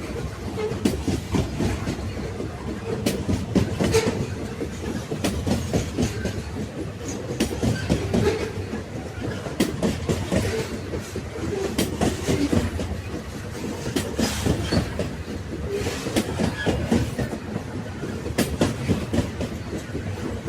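Railway wagons rolling along the track: a steady low rumble of the wheels on the rails, broken by sharp clickety-clack strikes at the rail joints roughly once a second.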